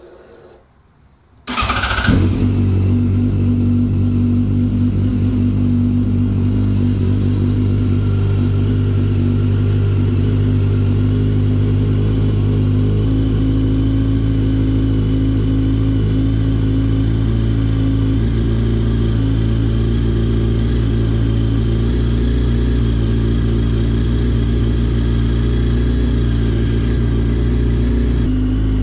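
2009 Yamaha FZ1's inline-four engine cranked on the starter on a cold start, catching almost at once about two seconds in, then idling steadily.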